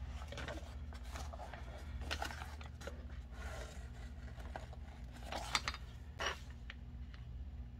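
Scissors cutting thin paper: a run of snips and paper rustles, with the sharpest snips about five and a half and six seconds in, over a steady low hum.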